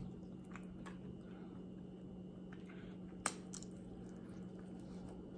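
Faint close-up chewing and wet mouth sounds of someone eating barbecue ribs, with small scattered clicks and one sharper click a little past the middle, over a steady low hum.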